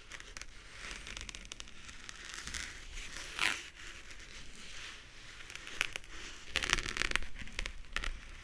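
Fingernails tapping and scratching on small hard objects held close to the microphone: a dense run of quick crisp clicks and crackles, with a louder scrape about three and a half seconds in and a burst of sharper taps around seven seconds.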